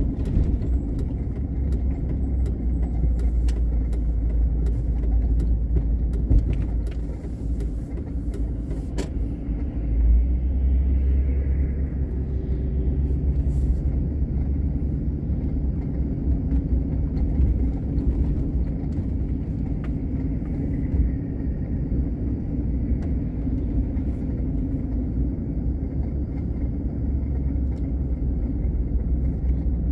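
Car being driven, heard from inside the cabin: a steady low rumble of engine and tyre noise, with scattered small clicks and rattles in the first ten seconds or so.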